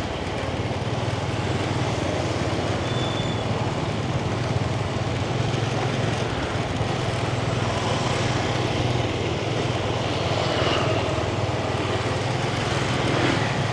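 Yamaha 125 cc motorbike's single-cylinder engine running at a steady pitch, under an even haze of street and traffic noise.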